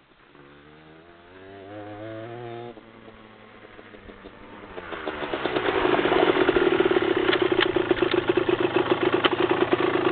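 Motocross bike engine revving up faintly, rising in pitch and dropping away after a couple of seconds; then a dirt bike's engine swells up loud and runs close by at steady high revs, with a fast rattling pulse.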